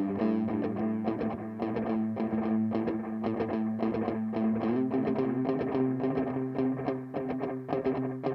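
Electric guitar played through a Donner Yellow Fall delay pedal: a run of quickly picked notes, several a second, over ringing sustained tones.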